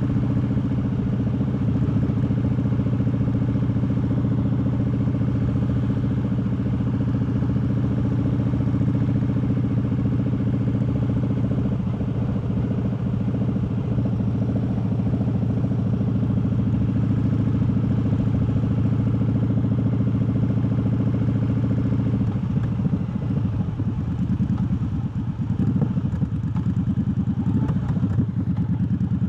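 Triumph Bobber's 1200 cc parallel-twin engine running steadily while riding. About 22 seconds in the engine note changes and wavers, dipping briefly a few seconds later, as the engine speed shifts.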